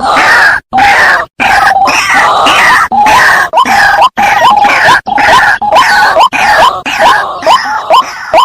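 Loud, harsh repeated calls of wak-wak sawah birds: short notes sliding upward, about two to three a second, over a noisy, distorted background, with several sudden dropouts.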